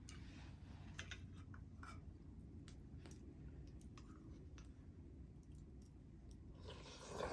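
Wood fire crackling faintly, with scattered sharp pops and clicks, and a brief louder hissing rustle near the end.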